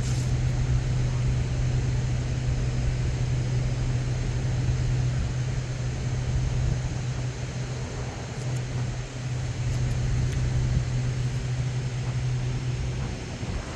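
Steady low mechanical hum under a constant wash of rushing noise, with no change through the stretch.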